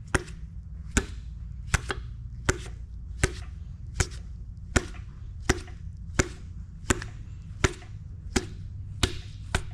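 Mallet tapping a piston down through a ring compressor into the cylinder bore of a 2.5 L four-cylinder engine: sharp, evenly spaced taps about every three quarters of a second, a few of them doubled. The piston is hanging up rather than sliding in.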